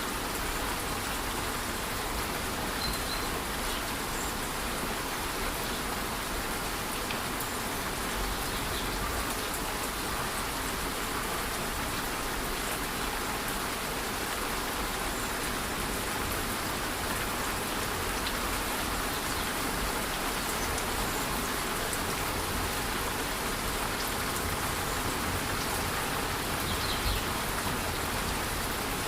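Steady rush of a rainforest waterfall in light rain: an even, unbroken wash of falling water.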